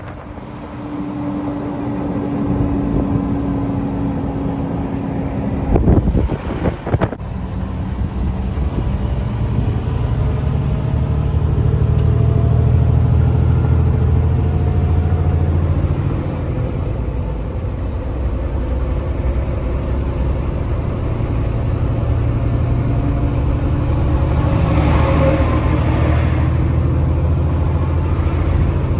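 Semi-truck's diesel engine running at highway speed with steady road noise, the engine drone strengthening about ten seconds in. A brief loud clatter about six seconds in.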